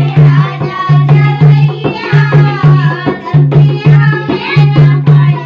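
Dehati folk song: a voice singing gliding lines over a steady, heavy drum beat with a pulsing bass, about two to three strokes a second.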